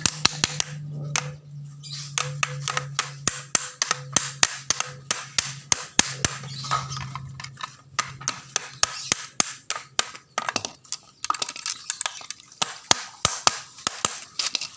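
Quick, irregular sharp taps and clicks of hand tools working on a grass cutter, several a second, over a steady low hum that stops about ten seconds in.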